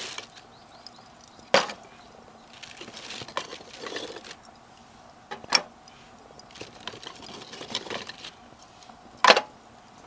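Newly lit fire of Japanese charcoal and fire starter in a small fold-out grill crackling, with three sharp, loud pops spread through it.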